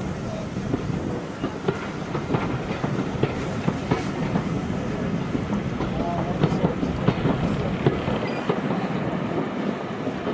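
A train running along the track: a steady rumble with many irregular clicks and clatters from the wheels over the rail joints.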